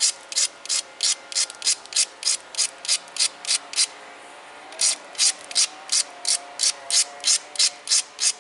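Edges of a chert point being ground on an abrader: quick, even back-and-forth rasping strokes, about three a second, with a short pause near the middle. The grinding takes the thin, sharp edges left by pressure flaking down before the next flakes are taken.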